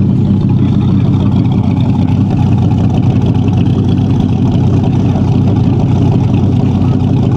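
Dodge Ram SRT-10's 8.3-litre V10 engine running steadily at an even speed.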